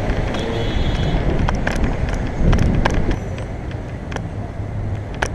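City road traffic running past a moving bicycle: a steady low rumble with scattered short clicks and rattles, a brief high whine about half a second in, and a louder swell of passing traffic around the middle.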